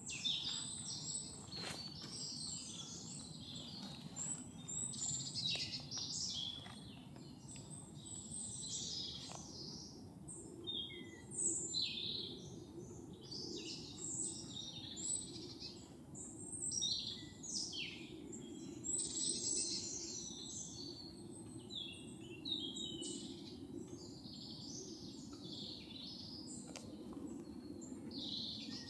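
Forest songbirds singing and chirping, many short overlapping calls and trills, over a faint steady low background noise.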